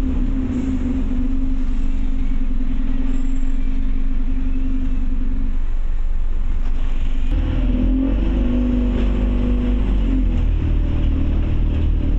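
Scania OmniCity bus's diesel engine heard from on board: a steady engine note that eases off about halfway through, then picks up again about seven seconds in with a deeper rumble and shifting pitch as the bus pulls away.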